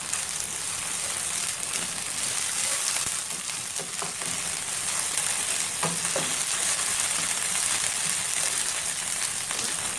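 Chopped onions and ginger-garlic paste sizzling in hot oil in a non-stick frying pan while being sautéed and stirred with a wooden spatula: a steady frying hiss with a couple of soft spatula scrapes.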